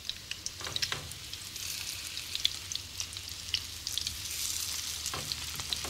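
Breadcrumbed pieces of breast of lamb shallow-frying in rendered meat fat in a frying pan: a steady sizzle with frequent small crackles and spits.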